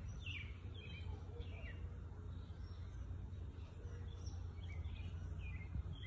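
Birds chirping: short, falling chirps again and again, over a steady low outdoor rumble.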